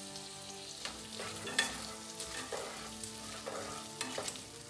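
Sliced onions and garlic sizzling in olive oil in a pot, with a spatula scraping and stirring them several times: the start of a refogado.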